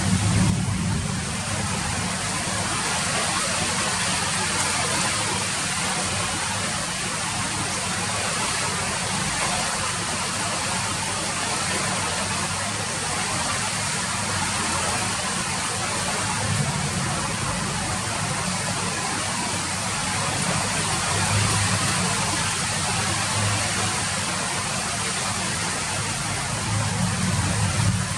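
Steady rain falling, an even hiss of many drops, with a low rumble underneath that swells briefly a few times.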